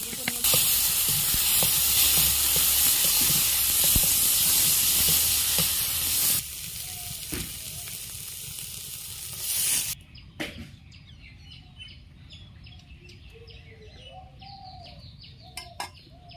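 Mustard-flower paste sizzling in a hot metal wok, a loud steady frying hiss that eases off about six seconds in. At about ten seconds it cuts off, leaving birds chirping.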